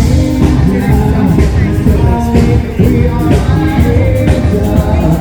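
Live band playing, with a singer.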